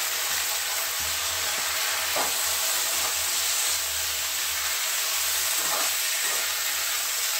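Chopped tomatoes, onions and coriander stems sizzling in hot oil in a steel kadhai, a steady hiss, with a steel spatula stirring and scraping against the pan a few times.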